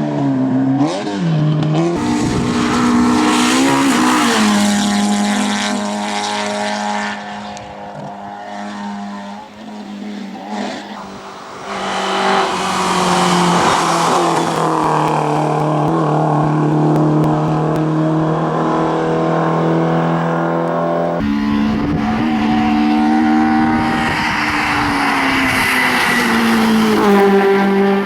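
Competition car engines revving hard, the pitch climbing and dropping through gear changes as the cars accelerate and brake on a hill-climb course. The sound changes abruptly twice, as one car gives way to another.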